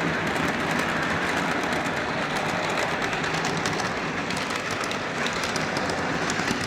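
O scale model train running along its track: a steady rolling rumble with many small rapid clicks from the wheels on the rails.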